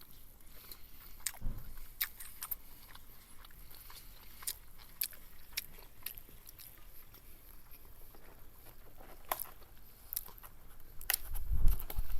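A person chewing and biting food, with scattered sharp clicks throughout. Near the end comes a louder low rumble.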